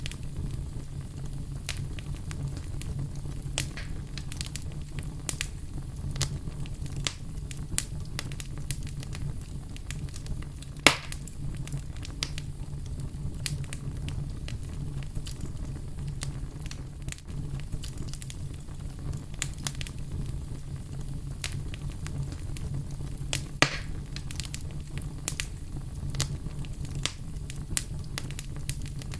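Fire crackling: a steady low rumble with frequent small crackles, and two louder pops, about eleven seconds in and again about twenty-four seconds in.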